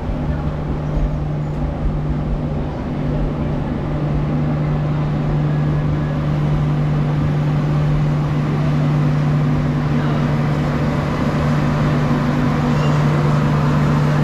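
Locomotive engine running with a steady low hum, growing gradually louder as it approaches.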